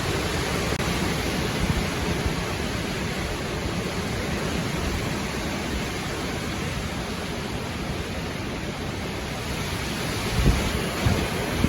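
Windstorm: strong wind blowing as a steady roar of noise, with a couple of brief low thumps of gusts hitting the microphone near the end.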